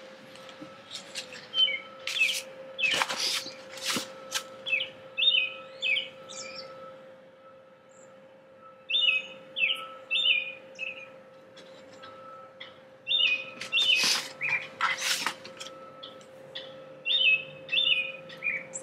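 A songbird outdoors repeating a short phrase of a few quick chirps about every four seconds. Between phrases come rustles and knocks of plastic nursery pots and potting soil being handled, over a steady hum.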